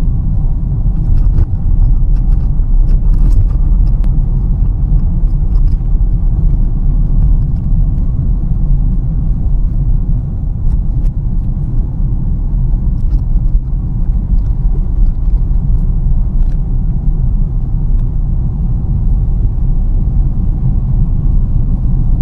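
Steady low rumble of a car driving on a road, heard from inside the cabin: engine and tyre drone with faint, scattered small ticks.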